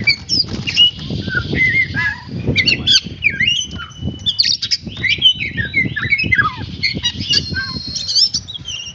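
Oriental magpie-robin (kacer) singing a long, varied song of clear whistles, slurred rising and falling notes and quick runs of descending chirps, over a low background rumble.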